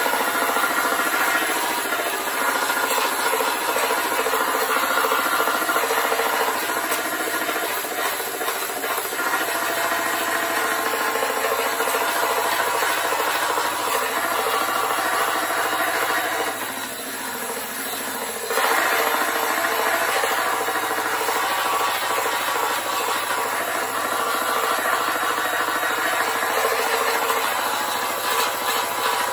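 Small handheld grinder-sander cutting into fiberglass, running steadily under load. It eases off for about two seconds a little past the middle, then bites in again.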